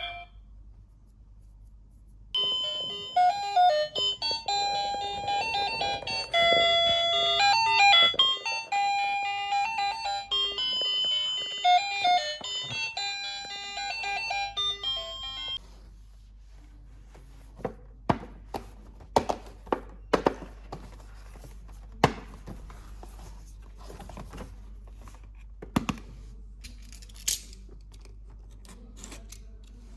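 An electronic toy tune, a bright beeping melody, plays for about thirteen seconds and then stops. After it come scattered sharp clicks and taps of plastic being handled.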